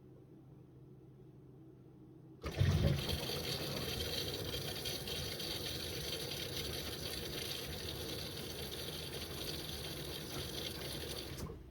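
Miele W1 washing machine filling: about two seconds in its water inlet valve opens and water rushes in with a steady hiss, which cuts off suddenly just before the end.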